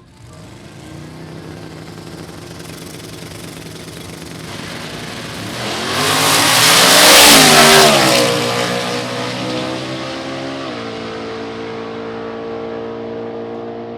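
A car or truck engine approaching and passing close by, loudest about seven seconds in, with its pitch bending down as it goes past, then running on at a steadier, lower note.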